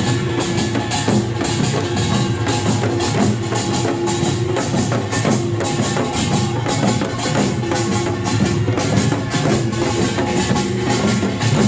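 Korean pungmul band playing live: kkwaenggwari small gongs, jing gongs, janggu hourglass drums and buk barrel drums in a fast, dense rhythm.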